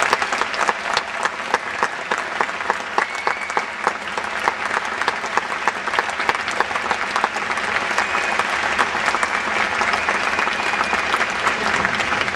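Audience applauding, a dense, steady clapping with some cheers mixed in.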